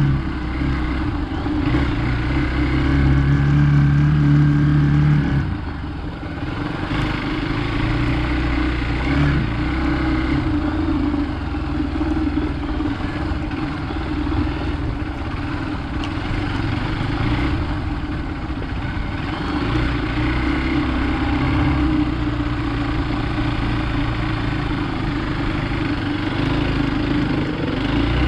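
Hero Xpulse 200's single-cylinder engine running while the motorcycle is ridden off-road, the throttle rising and falling. It is loudest at first and eases off about five seconds in.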